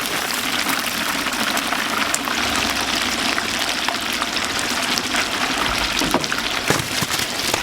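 Food deep-frying in a vat of hot oil: a steady sizzle with many small crackles and pops.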